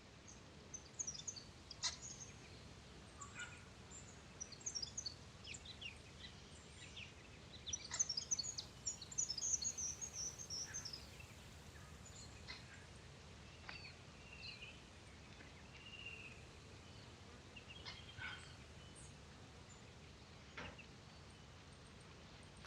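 Birds chirping with many quick high notes, thickest about eight to eleven seconds in, with a few lower calls later on.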